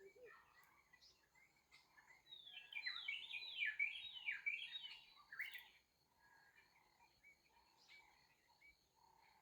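A bird calling: a fast run of falling notes for about three seconds in the middle, with softer scattered chirps around it and a steady high-pitched drone underneath.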